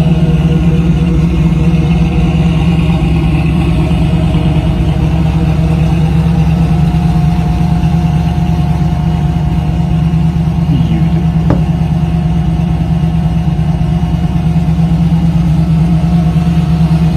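Muscle-car engine idling loudly and steadily, with a choppy low note that holds without revving.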